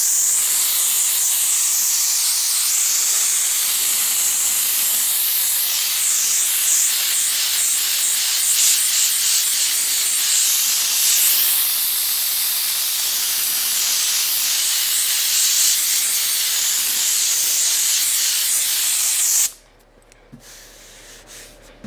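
Fire extinguisher discharging in a steady, loud hiss, cutting off suddenly near the end.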